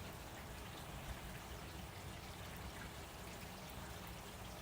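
Steady, soft rain: an even hiss of falling rain with no distinct drops or thunder.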